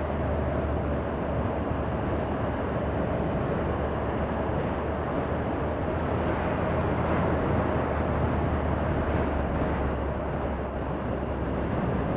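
Triumph Tiger 1200 motorcycle's three-cylinder engine running steadily on the move, under a steady rush of wind noise.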